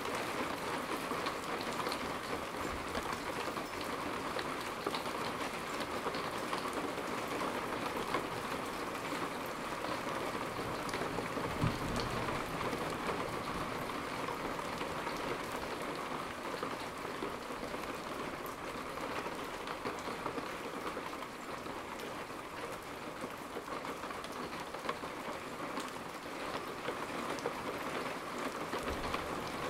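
Steady, heavy rain falling on the ground and the building during a thunderstorm, a constant even hiss of drops. A single brief low thump about twelve seconds in.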